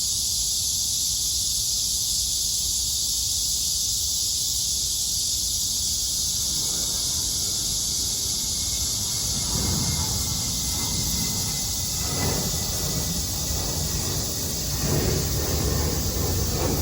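A chorus of cicadas giving a steady, high-pitched, hissing drone. About halfway through, a low rumble builds beneath it and grows louder towards the end.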